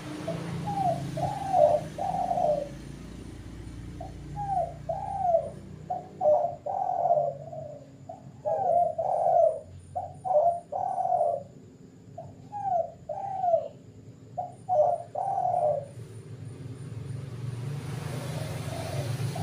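Spotted doves (tekukur) cooing: repeated phrases of short arched coo notes in bouts with brief pauses, over a low steady hum. The cooing stops for the last few seconds.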